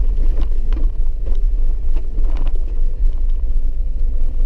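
Four-wheel-drive vehicle driving on a wet dirt mountain road, heard from inside the cabin: a steady low rumble with scattered light clicks and knocks.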